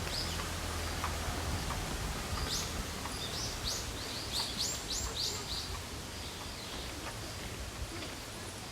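Steady rushing noise of flowing water. Through it a small bird sings a quick series of short, high chirps in the middle.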